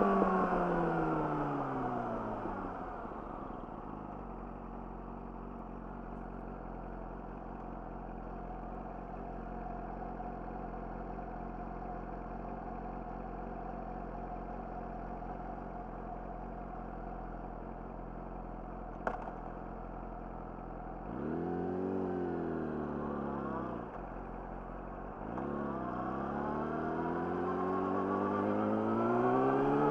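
Yamaha YZF-R6 inline-four through an Akrapovic slip-on exhaust: the engine note falls as the bike slows, then holds a steady low idle-like note for a long stretch. A single sharp click sounds, then the revs rise and fall once, and near the end the note climbs steadily as the bike accelerates.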